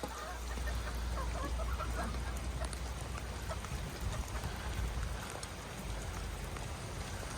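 Steady rain falling, with wind rumbling on the microphone. Faint short calls from chickens come through in the first three seconds or so.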